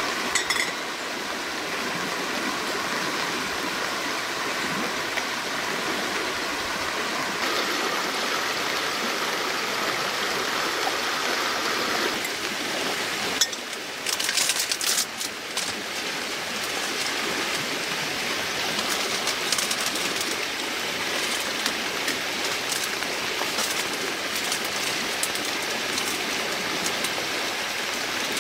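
Running water, a steady rushing sound, with a few short clicks and knocks about halfway through.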